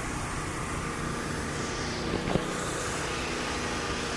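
A vehicle's engine running steadily, with a single short knock a little over two seconds in.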